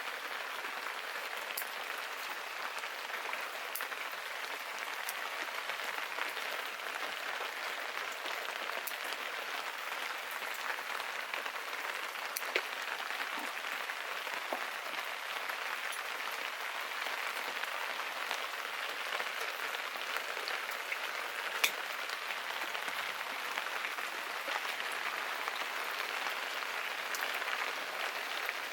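Steady rain falling, an even hiss with scattered drips and ticks, and two sharper clicks, one about midway and one about three-quarters of the way through.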